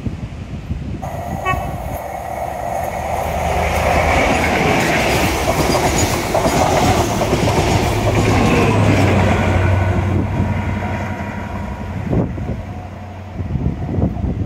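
Passenger train passing close by, with wheels clattering on the rails. The sound builds to a peak in the middle and fades as the train draws away, with a brief horn toot about a second and a half in.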